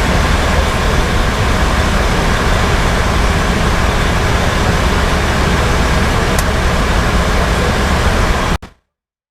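Fire engine's 470 hp Detroit Series 60 diesel running steadily with road noise as the truck drives under way. The sound cuts off suddenly near the end.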